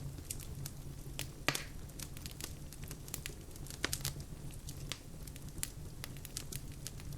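Wood fire crackling in a fireplace: irregular sharp pops and snaps over a low steady rumble of the flames, with a louder pop about a second and a half in and another near four seconds.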